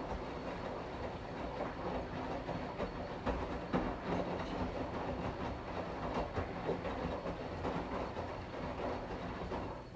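Washing machine running: a steady rumble from the turning drum with a low hum and irregular clicks and knocks, a couple of them louder about three and a half seconds in.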